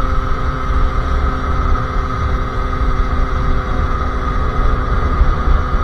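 Sherco SM-R 50cc two-stroke engine with a KRM exhaust, running at a steady pitch while riding, with no revving up or down. Wind buffets the microphone with a low, uneven rumble.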